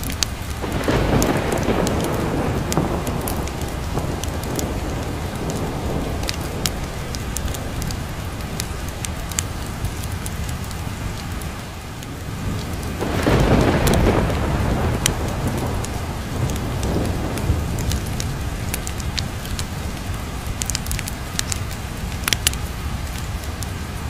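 Steady rain with two rolls of thunder, one about a second in and a louder one about halfway through, each swelling and fading over several seconds. Sharp little clicks are scattered over the rain.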